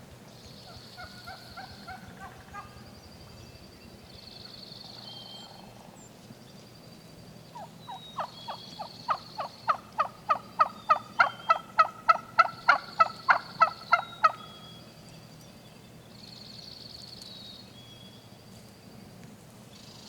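A long series of about twenty turkey yelps, about three a second, growing louder over some six seconds, after a few soft notes about a second in. A songbird's short, high, buzzy trill repeats in the background.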